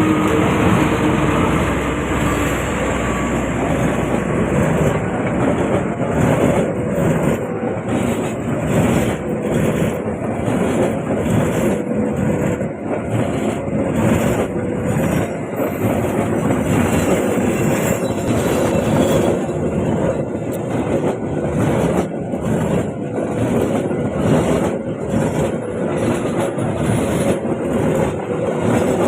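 A train passing close by, its wheels clattering over the rail joints in a steady, repeating rhythm.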